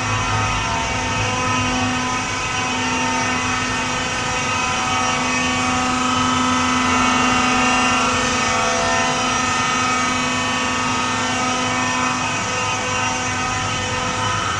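Ship's engine room machinery running: a loud, steady drone made of many constant tones over a broad mechanical noise.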